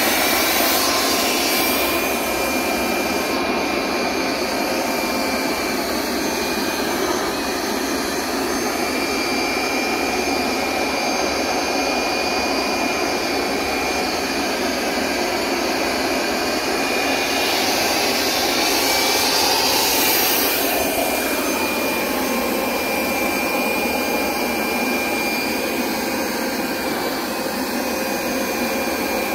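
Hoover SmartWash Pet Complete automatic carpet cleaner running steadily with a thin motor whine, on a rinse pass over the rug. The sound swells briefly about two-thirds of the way through.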